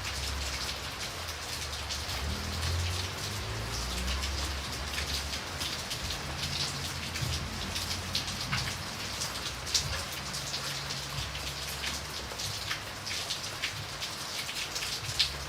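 Steady rain falling, with many individual drops striking a surface as sharp ticks, a few of them louder, about ten seconds in and near the end. An uneven low rumble runs underneath.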